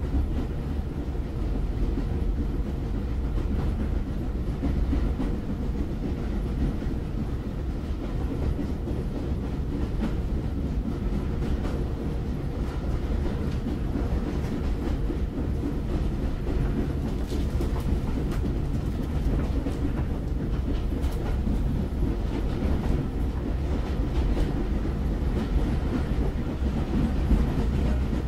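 Train running along the rails with a steady low rumble and a faint clickety-clack of wheels over rail joints, clicking now and then mostly in the middle.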